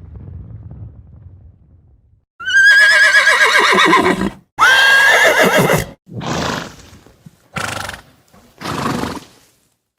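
Horse neighing: two loud whinnies, the first with a trembling pitch and the second holding a high note before sliding down. Three shorter, breathier calls follow in the second half. A low rumble fades out before the first whinny.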